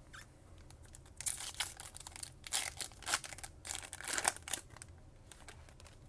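Foil trading-card pack wrapper crinkling and tearing as a pack is ripped open, in a string of irregular rustling bursts over a few seconds.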